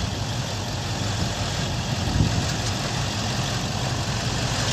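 Vehicle engine idling steadily, a constant low hum under a broad steady noise.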